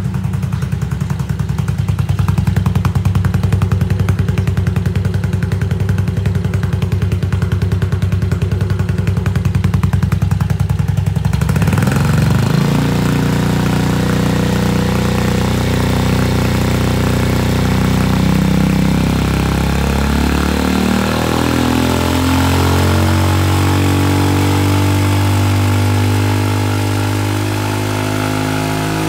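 Yamaha Majesty 250 (SG03J) scooter's single-cylinder four-stroke engine idling steadily, then, about twelve seconds in, revved with the throttle, its pitch rising and falling repeatedly.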